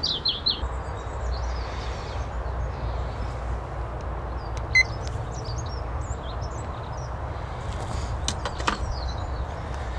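Small birds chirping over a steady low rumble outdoors, with one sharp click about halfway through and a few knocks near the end.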